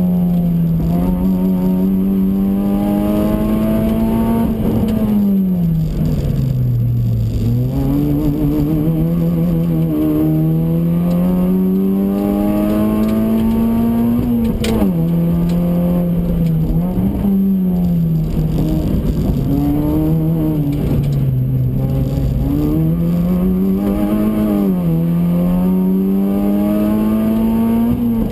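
Honda Fit RS (GE8) 1.5-litre four-cylinder engine at full throttle on track, heard from inside the cabin: the revs climb slowly, sink away twice as the car slows for corners, and drop sharply at gear changes about halfway through and at the end. Road and wind noise run underneath.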